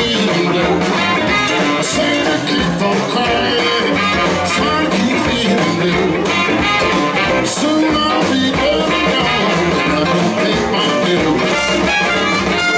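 Live blues band playing a song, with guitar to the fore.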